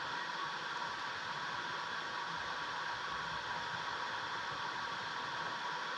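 A steady, even hiss with no breaks or changes.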